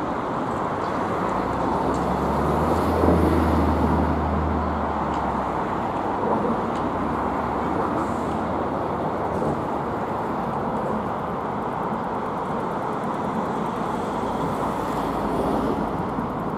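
Freight train of covered wagons rolling past on a railway line, heard at a distance and mixed with steady road traffic noise. A low hum swells and fades over the first five seconds.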